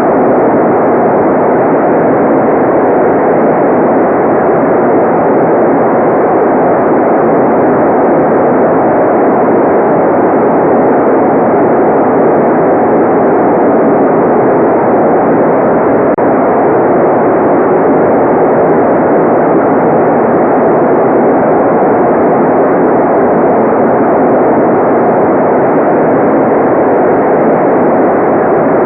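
Steady, unchanging white noise: an even rushing hiss with no treble above the upper midrange, so it sounds darker than full-range white noise.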